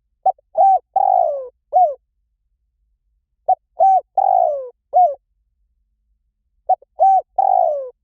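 Spotted dove cooing: three identical phrases about three seconds apart, each a very short note, a coo, a longer coo that slides down in pitch, and a closing short coo.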